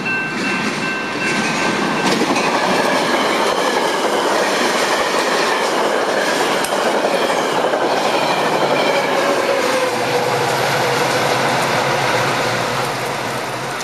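Metra bilevel commuter train passing close at speed over a grade crossing, with steady wheel-and-rail noise and the clickety-clack of wheels over rail joints.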